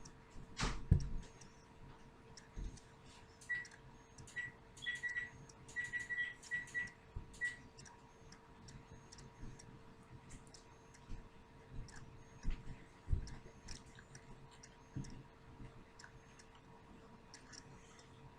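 Scattered light clicks and taps from small objects being handled, with one louder knock about a second in and a quick run of short high pips a few seconds later, over a faint steady hum.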